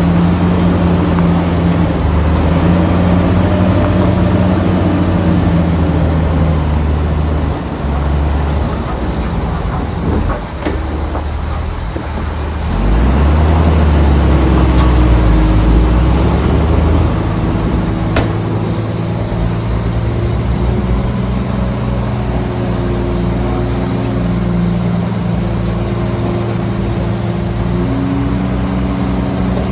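Heavy diesel engine of a large earthmoving machine running steadily, easing off about a third of the way in, then pulling harder and louder for a few seconds before settling back to a steady run.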